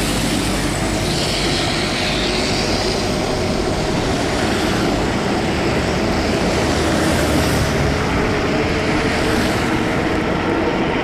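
Steady rush of wind on the microphone and tyre noise on wet pavement from a fat-tire e-bike being ridden in the rain.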